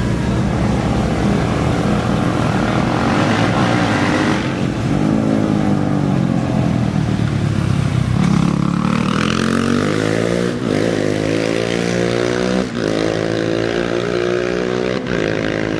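Off-road race engine revving and accelerating away, over a steady drone of other race engines. Its pitch climbs steadily from about eight seconds in, broken by short breaks about every two seconds.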